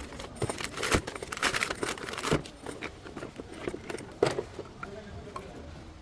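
Metal tools and parts being handled: irregular clinks and rattles with some crinkling, and sharp knocks about one, two and a half, and four seconds in.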